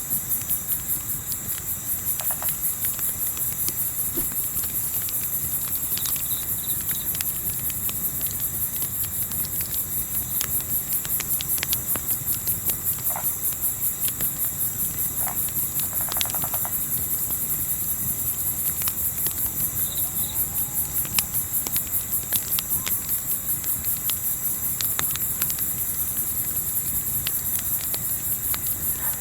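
Crickets chirping in a dense, fast-pulsing chorus, with scattered sharp crackles from a campfire and a low rumble of wind underneath.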